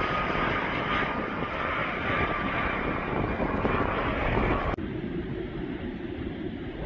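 Airplane engine noise, a loud steady rush with a faint high whine, that cuts off abruptly about five seconds in to a quieter low rumble.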